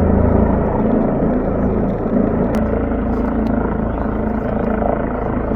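Rescue helicopter's rotor and engine running steadily during a hoisting operation.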